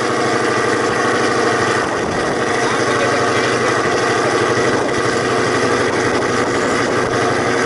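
Ford Mustang 5.0 V8 idling steadily through a loud custom exhaust.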